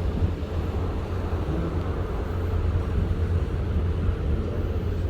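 Wind rushing over the microphone aboard a ship at sea, over a steady low rumble.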